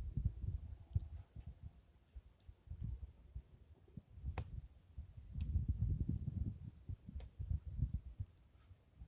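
Wood fire crackling with a few small, sharp pops spaced a second or two apart, over low rumbling gusts of air buffeting the microphone that swell strongly a little past the middle.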